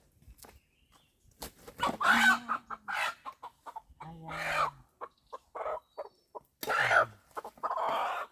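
Chickens squawking and clucking in a series of loud, harsh bursts, with sharp knocks and rustles between the calls.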